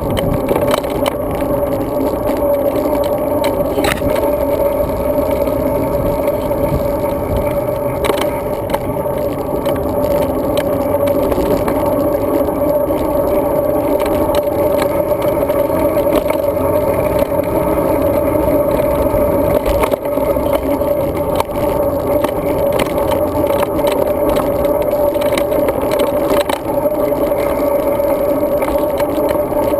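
Road bike riding noise picked up by a GoPro Hero 2: steady wind and rolling noise under a constant hum, with scattered knocks and rattles from bumps.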